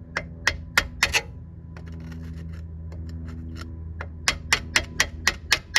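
A hand tool striking the rusty wheel hub to knock the rust loose: sharp metallic taps, a quick run of about five in the first second, then a steadier run of about seven near the end at roughly four a second. The rust is coming off in flakes and pieces.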